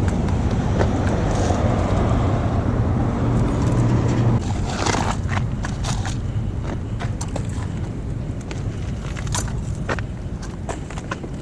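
Traffic rumble from passing cars, then a run of sharp clicks and rustles from about halfway in: litter and gravel being handled and picked up.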